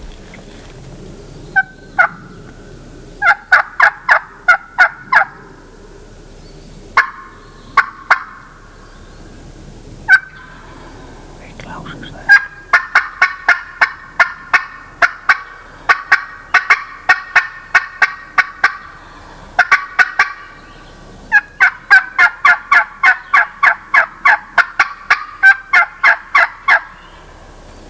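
Hand-held turkey call worked loudly to imitate a hen, in four long runs of short, sharp notes, about three to four a second.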